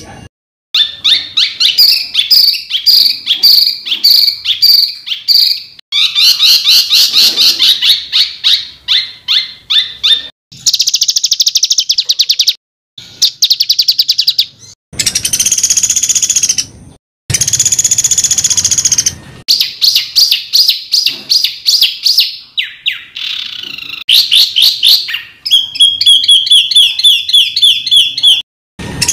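Songbird calls spliced one after another, with several abrupt short gaps between clips: fast runs of repeated sharp, high notes and harsh rattling trills. These are the rapid 'tembakan' phrases of a masteran recording, played to caged songbirds for them to copy.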